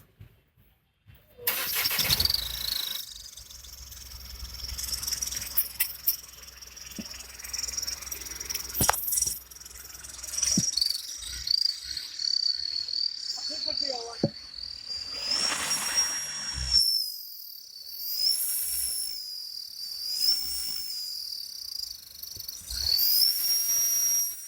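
Vehicle engine started about a second and a half in and then revved in repeated blips, while an aftermarket turbo whistle fitted in the exhaust gives a high whistle that rises and falls in pitch with each rev.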